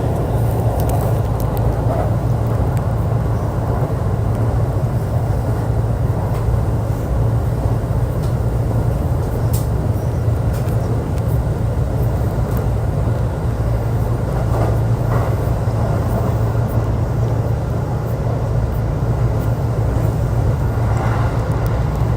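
Running sound of a JR East E531 series electric multiple unit heard from on board, moving at a steady pace: a constant low hum and rumble of wheels on rail, with a few faint clicks.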